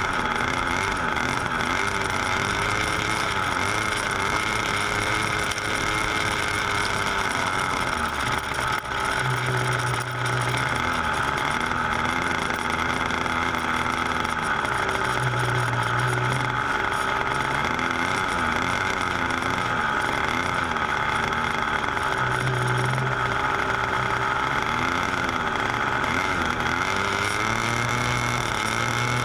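Small model-airplane engine running continuously, its pitch wavering up and down as the revs change.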